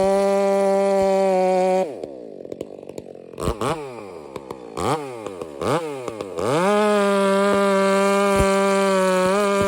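70cc Stihl professional chainsaw running at high revs. About two seconds in the throttle is released and the engine falls toward idle, with three quick blips of the throttle, then it climbs back to full revs and holds steady about six and a half seconds in.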